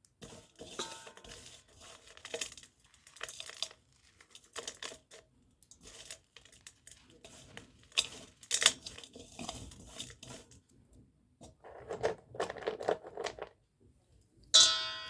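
Dry slate pencils being handled and cleaned: a run of short, irregular scratchy rubbing and clicking sounds. Near the end comes a sharp clink that rings briefly, like a hard piece knocking against a dish.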